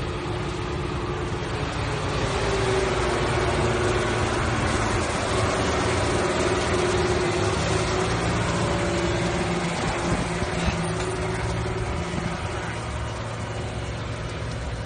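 An engine idling steadily, its note swelling slightly louder for several seconds in the middle.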